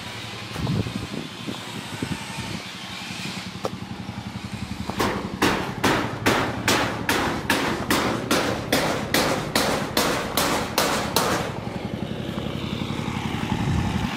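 A run of about fifteen hammer blows, roughly two a second, starting about five seconds in and stopping a couple of seconds before the end, over a steady low hum of a small engine idling.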